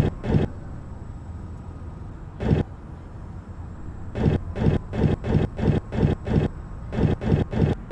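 Girbau HS4012 commercial washing machine tumbling a wash load: a fast run of thumps, about three a second, over a steady low rumble. The thumps stop about half a second in, with a single one a couple of seconds later, and resume about four seconds in.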